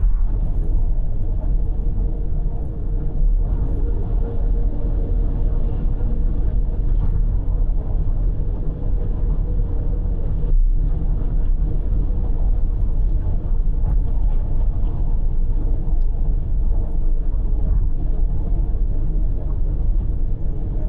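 Car travelling at speed on an expressway: steady low road and engine rumble.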